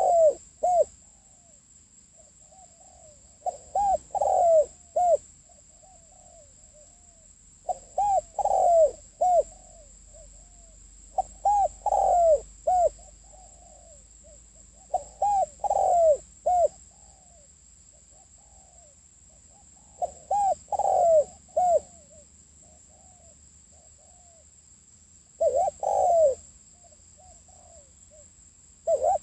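Spotted dove (cu gáy) cooing: a short phrase of several coos, repeated about every four seconds, seven times. This is the kind of call used as a lure to stir up wild spotted doves. A faint steady high whine runs underneath.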